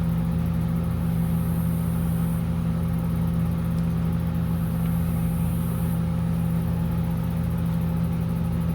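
Steady low mechanical hum from a running machine, unchanging throughout.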